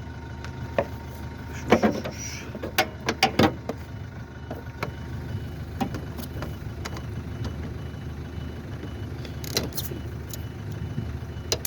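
Scattered sharp clicks and knocks of plastic car headlight parts and tools being handled and fitted, in a few quick clusters, over a steady low hum.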